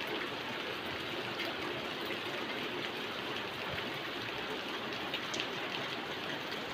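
Heavy rain pouring down steadily, a dense hiss with scattered sharp drop splats.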